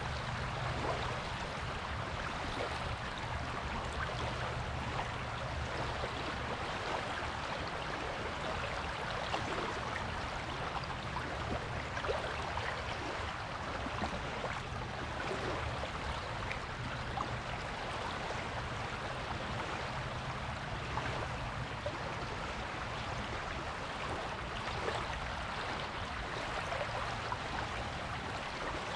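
Waves washing on a beach: a steady, even surf hiss with a low rumble underneath.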